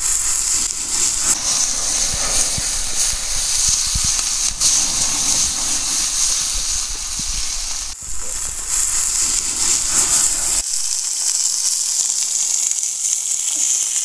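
Meat sizzling in the heat of a campfire, a loud steady hiss. Low knocks and rumble sound under it until about two-thirds of the way in.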